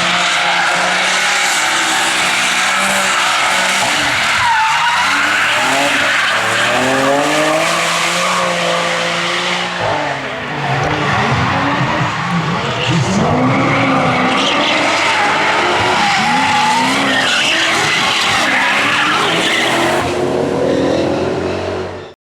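Hill-climb race car engine revving hard, its pitch rising and falling again and again through gear changes and corners. The sound cuts off suddenly near the end.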